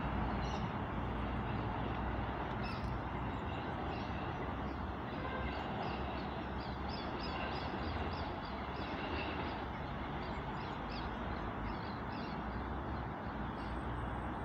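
Low, steady rumble of a departing NI Railways CAF diesel multiple unit running away into the distance, with many birds chirping over it.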